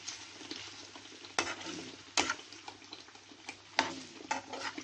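Paneer cubes sizzling in olive oil in a frying pan while a metal spoon turns them. The spoon gives several sharp knocks and scrapes against the pan over the steady frying hiss.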